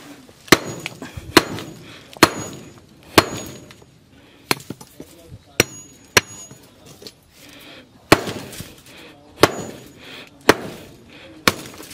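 About eleven sharp strikes at irregular intervals, roughly one a second, some leaving a short metallic ring: something hard being hit or knocked repeatedly, like hammer blows.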